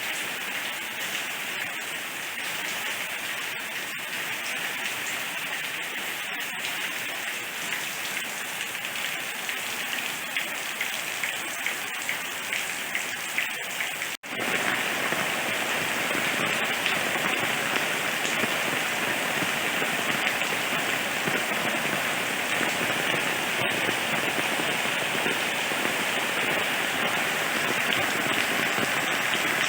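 Steady rain falling, with light drop ticks in the first half. It cuts out for an instant about halfway through, then comes back louder and heavier.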